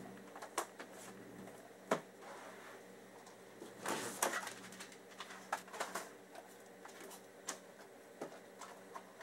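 School supplies being handled and set down on a wooden desk: notebooks, a pencil case and markers. There are irregular clicks, knocks and rustles, with a sharper knock about two seconds in and a run of clicks in the second half. A faint steady hum runs underneath.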